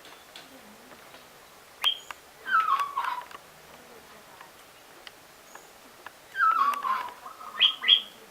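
An animal calling twice, each call a falling, wavering cry, with short sharp higher chirps around them.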